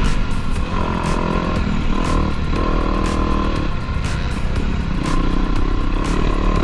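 Motocross dirt bike engines running on the track.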